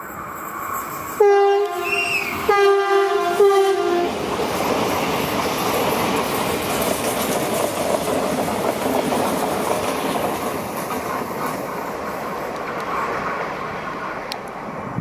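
Renfe Rodalies electric commuter train sounding its horn in three short blasts, the last dipping slightly in pitch, then running past with a steady rumble and clatter of wheels on the rails.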